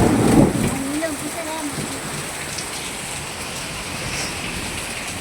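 Heavy rain falling steadily, a dense even hiss. A loud low thump comes right at the start.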